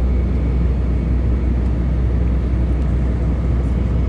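Airliner cabin noise in flight after takeoff: the steady, deep rumble of the jet engines and airflow heard from inside the cabin.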